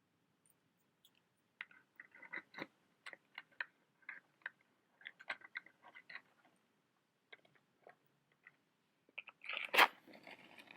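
Fingernail tapping and small crinkly clicks on a matchbox, a few irregular taps a second, then near the end a louder scrape and a sharp crack followed by a short hiss, like a match being struck and flaring.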